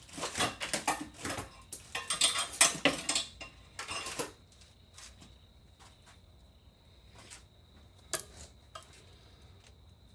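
Metal air-hose fittings clinking and rattling as they are handled and tried against each other: a dense run of clicks for about four seconds, then a few scattered single clicks.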